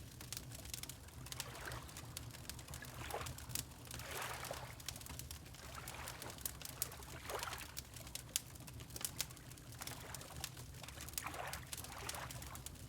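Water lapping in soft washes every few seconds, mixed with a wood fire crackling and popping throughout, over a steady low rumble.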